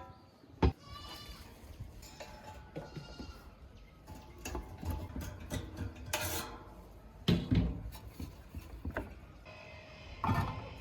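Workshop handling of an old metal table fan being taken apart: several sharp knocks and clicks, and a few short squeaks early on.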